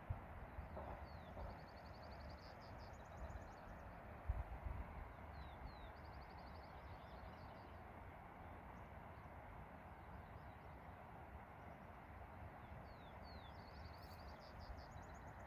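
Faint birdsong over a steady outdoor hiss: a small songbird repeats a phrase of a couple of quick falling notes and then a fast, high trill, about three times. There is a soft low thump about four seconds in.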